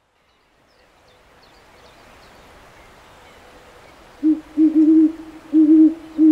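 A faint outdoor ambience with scattered high bird chirps fades in, then about four seconds in a run of short, low hoots comes in quick groups and is the loudest sound.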